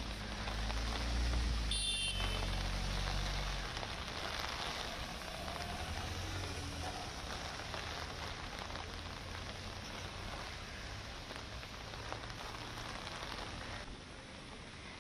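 Heavy monsoon rain falling steadily, a dense even hiss. A low rumble runs underneath for the first few seconds, with a short high-pitched tone about two seconds in.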